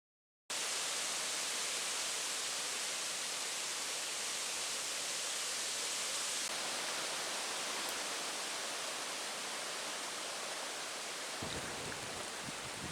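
Steady heavy rain hiss, starting suddenly after a moment of silence. Near the end, gusts of wind buffet the microphone.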